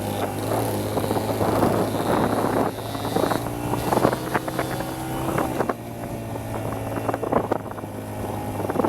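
Small dirt bike engine running steadily, with wind buffeting the microphone in gusts.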